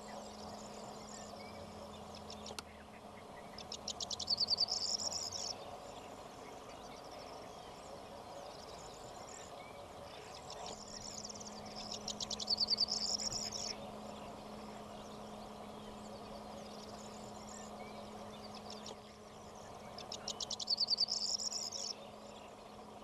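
A bird singing a rapid, pulsed, high-pitched trill that swells in loudness over about two seconds. It sings three times, about eight seconds apart.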